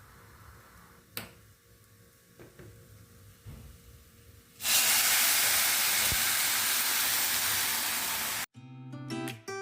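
Rice frying in a pan, with a click about a second in; about halfway through, water going into the hot pan sets off a sudden loud, even hiss of steam and sizzling that lasts about four seconds and cuts off. Acoustic guitar music starts near the end.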